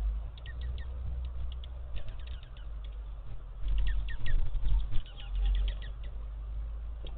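Small songbirds at a feeder chirping: short, falling chirps, a few at first, then a quick run of many in the middle. A low rumble runs underneath.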